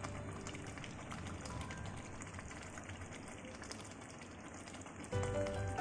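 Chicken frying in oil and ghee in a pan: a steady, crackling sizzle. Background music comes in near the end.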